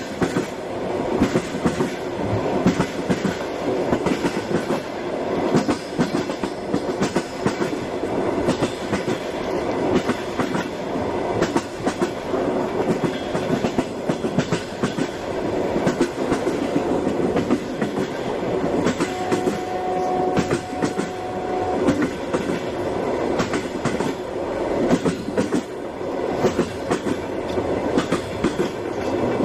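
Railway train running along the track, its wheels clattering steadily over the rails, with a brief steady whine about twenty seconds in.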